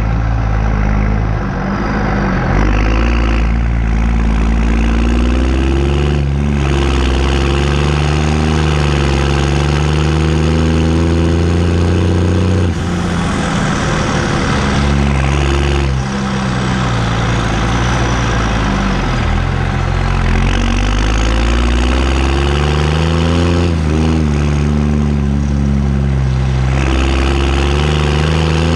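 New Holland T6030 tractor's diesel engine running through a straight-pipe exhaust, loud and continuous. Its revs rise and fall several times, with a few sudden drops as the throttle is let off.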